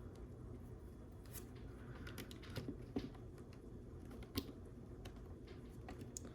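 Small plastic Lego pieces clicking and tapping as they are handled and pressed together, a scattering of light clicks with two sharper ones about three and four and a half seconds in.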